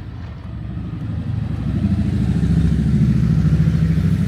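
A motor vehicle engine running with a low, steady hum that grows louder about two seconds in.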